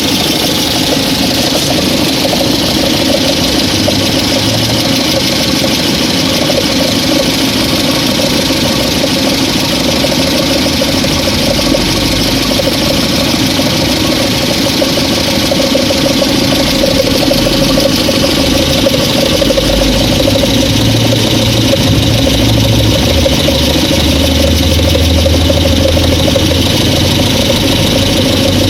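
VAZ-2109 (Lada Samara) engine running with a knock whose cause the owner cannot identify. A deeper low rumble comes in during the last third.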